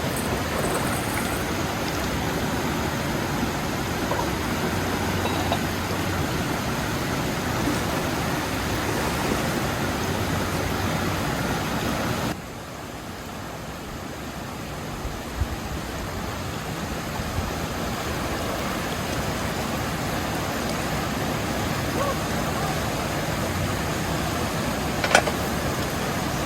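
Steady rushing of water, an even hiss with no rhythm. It drops abruptly to a lower level about halfway through, then carries on. There is a single sharp click near the end.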